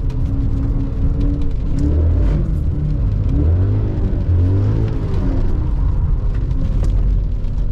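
BMW E39 M5's V8, fitted with Dinan cold air intakes, accelerating under a strong low rumble, its revs rising and falling several times.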